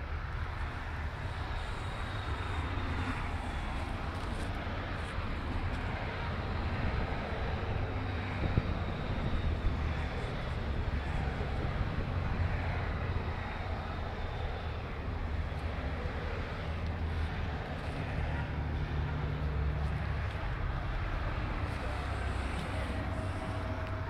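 A steady stream of Honda Gold Wing touring motorcycles passing in procession, their engines running at low parade speed in a continuous low drone.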